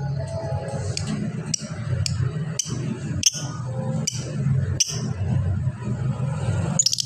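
Lovebird giving a series of short, sharp chirps, one every half second or so, then a quick cluster near the end, over a steady low hum.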